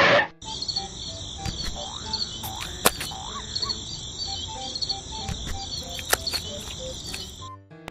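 Insects chirping in a steady high-pitched pulsing chorus, with scattered short croaking calls and a couple of sharp clicks.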